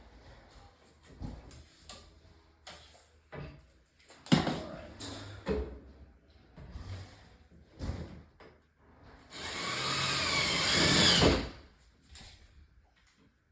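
Power drill running for about two seconds near the end, its pitch wavering as it drives into the wood of a bed frame being assembled. Before it come several knocks and clunks of wooden parts being handled.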